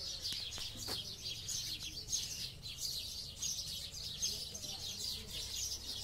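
Small birds chirping continuously, a steady stream of short, high chirps.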